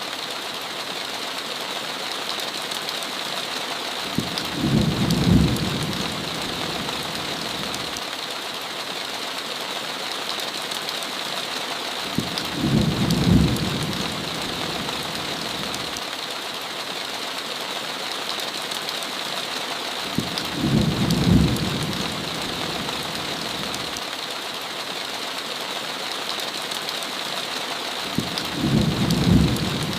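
Steady heavy rain on a window, with a low rumble of thunder that swells and cuts off four times, about every eight seconds.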